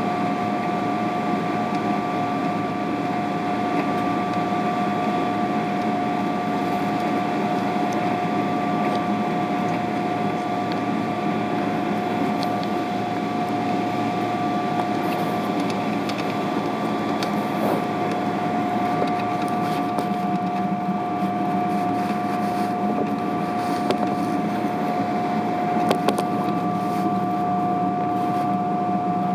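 Steady cabin noise inside a Boeing 777-300ER: an even rumble and hiss from its GE90 engines and the air system, with two steady whining tones held throughout and a few faint clicks near the end.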